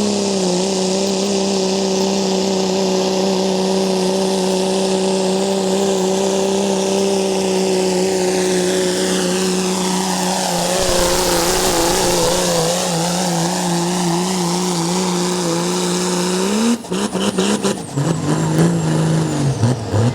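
Pulling truck's engine held at high, steady revs as it drags the sled down the track, passing by about halfway through. Near the end the revs flare briefly, then the throttle comes off and the engine drops away in choppy stutters as the pull ends.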